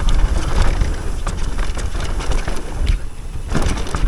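Wind buffeting the microphone over the rumble of a mountain bike riding a dirt trail, with many short rattling clicks; the noise drops briefly about three seconds in.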